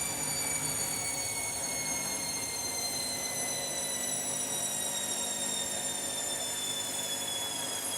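Washing machine motor whining as the drum spin slows down: several high tones slide slowly and steadily down in pitch over a steady lower hum.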